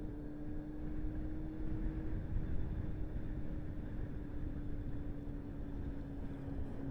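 Steady vehicle running noise: low road rumble with a constant engine hum holding one pitch.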